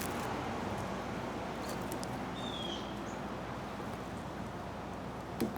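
Steady outdoor background noise with a single faint, short, falling bird chirp about two and a half seconds in, and a louder call starting right at the end.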